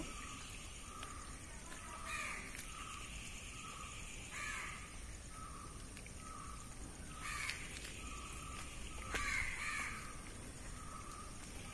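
Birds calling: four or five louder, rough calls a couple of seconds apart, over a steady run of short repeated notes at about three every two seconds.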